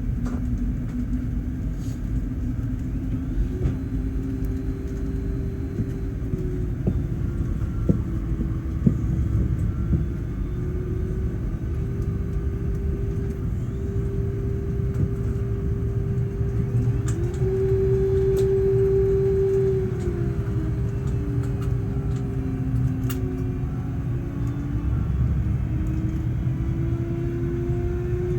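Airbus A380 engines heard from inside the cabin: a steady low rumble with a hum whose pitch shifts up and down as the engines spool.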